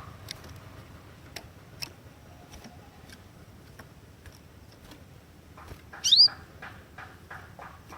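Cinereous tit (gelatik batu) calling: scattered short, sharp ticks, then about six seconds in a loud call of quick, high, up-slurred whistles.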